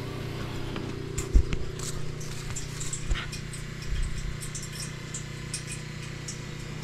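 Wood fire crackling in a fire bowl, with many quick irregular pops and snaps over a steady low hum, and one louder knock about a second and a half in.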